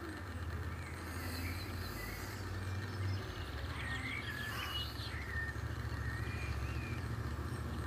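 Small birds chirping several times over a steady low rumble.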